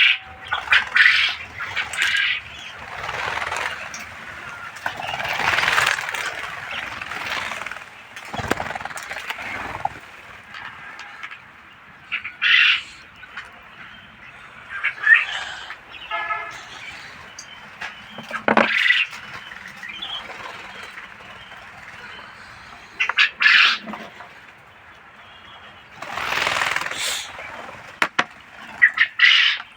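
A flock of caged quail with short chirping calls and bursts of wing flapping, scattered irregularly.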